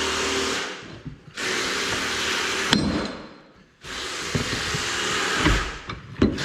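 Power tool hammering a punch against a worn manure spreader chain pin to drive it out, running in three bursts with short pauses between, with a few sharp knocks.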